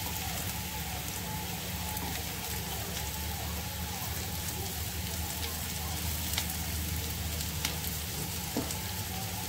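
Sliced potatoes and onions sizzling as they fry in a little oil in a non-stick kadai. A plastic spatula turning the slices over makes scattered light scrapes and taps.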